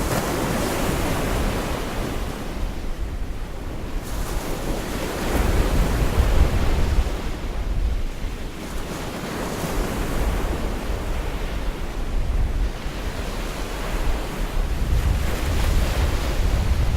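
Gulf of Mexico surf washing onto a beach, several waves swelling in a few seconds apart, with wind buffeting the microphone in low rumbles.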